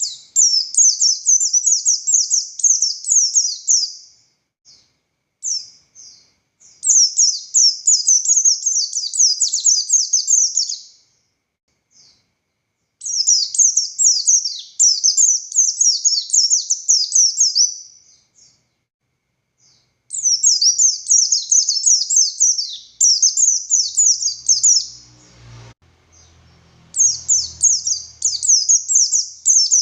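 A pleci buxtoni white-eye singing in long runs of rapid, high, twittering notes, each run lasting about three to five seconds, with short pauses between runs.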